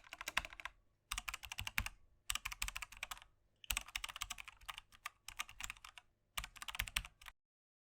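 Rapid runs of light clicks in six bursts, each about a second long, separated by short gaps. They stop about seven seconds in.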